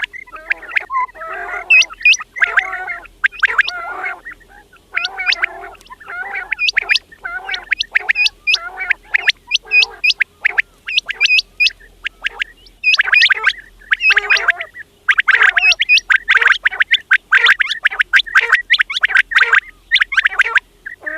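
Quails calling over and over: low, rough notes with quick runs of sharp, rising high notes, in dense bursts separated by short gaps.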